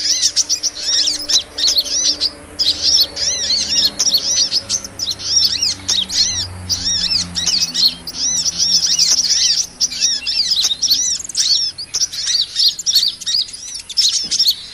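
Sunbirds ('kolibri') chirping in a rapid, unbroken stream of short, high, arching notes, as a looped bird-lure recording for trapping small birds.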